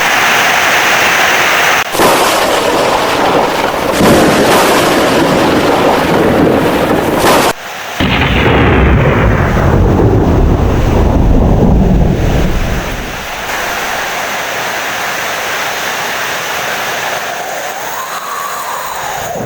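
Thunder rumbling over heavy rain, loud and deep for the first dozen seconds with a brief break about halfway, then fading away at about 13 seconds to leave the steady hiss of rain.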